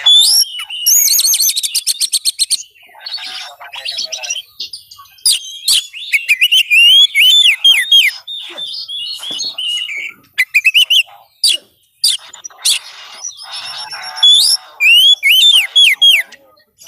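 Oriental magpie-robin (kacer) singing a loud, varied song: fast runs of high repeated notes alternating with slurred whistles that hook down in pitch, in phrases broken by brief pauses.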